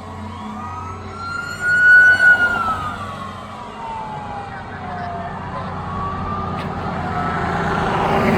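Fire engine siren wailing: it climbs to its highest and loudest point about two seconds in, slides down, then starts rising again. Vehicle engine rumble grows louder toward the end.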